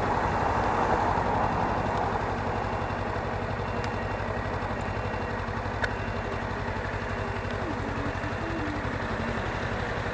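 Suzuki V-Strom 250 motorcycle's parallel-twin engine running steadily, with a rush of wind and road noise that is a little stronger in the first couple of seconds.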